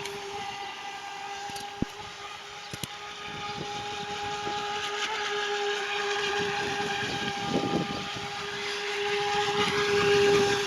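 Homemade model jet boat's 3900kv brushless electric motor running at a steady high-pitched whine over a rushing hiss, getting louder near the end.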